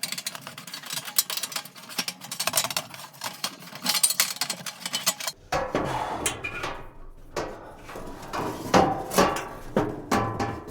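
Metal knocking and clattering as a water-filled copper pipe is worked by hand: a rapid run of sharp clicks for about five seconds, then separate, heavier knocks.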